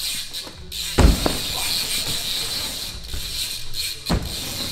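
BMX bike landing on a wooden ramp with a heavy thud about a second in and another just after four seconds, with tyres rolling on the wood and the rear hub's freewheel clicking steadily as it coasts.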